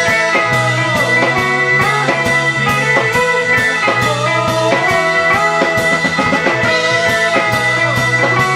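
Live rock band playing a song: electric guitar and drum kit over a steady beat, with held and bending guitar notes.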